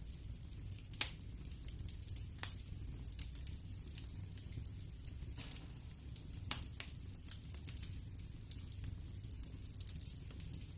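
Wood fire burning in a fireplace: a steady low rumble of flames with scattered sharp crackles and pops, the loudest about two and a half seconds and six and a half seconds in.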